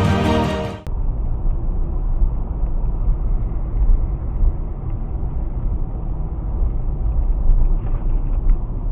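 Music stops suddenly about a second in. A steady, low rumble of a car being driven follows, road and engine noise as picked up by a dashcam.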